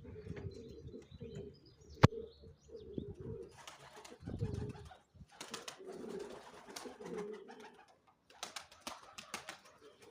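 Pigeons cooing over and over, with a sharp click about two seconds in and short bursts of rustling.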